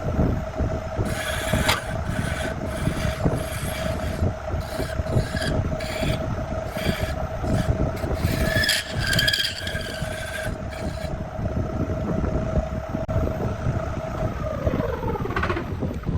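An electric power tool running steadily while it scrapes and abrades wood, with a series of short sharp rasping bursts as the tool bites. About a second and a half before the end it is switched off and its pitch falls as the motor spins down.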